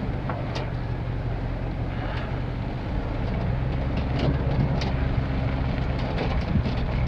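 Ford F-350 Super Duty pickup's engine running at low speed, a steady low drone, with scattered light clicks and rattles.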